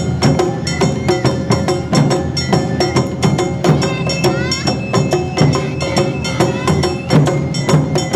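Awa Odori festival band music: a fast, dense rhythm of drum and bell strikes under held melody notes, with a rising run of notes about halfway through.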